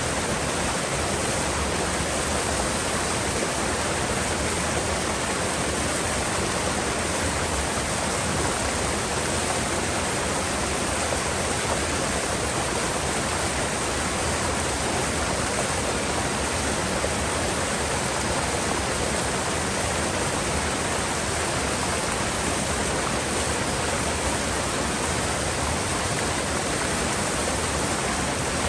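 Mountain river water rushing steadily through a rocky gorge, a constant even rush with no break or change.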